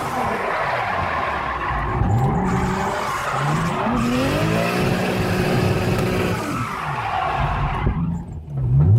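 Drift car sliding with its tyres squealing and its engine revving up and down again and again. The sound dips briefly near the end, then the revs climb again.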